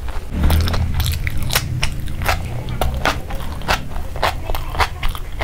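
Close-up mouth sounds of someone chewing a chicken burger's lettuce and breaded fried patty, with many quick, crisp crunches.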